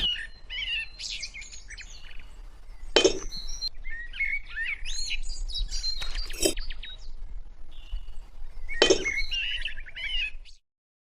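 Birds chirping with many short, quick calls. Three sharp knocks come about three seconds apart, and the sound cuts out just before the end.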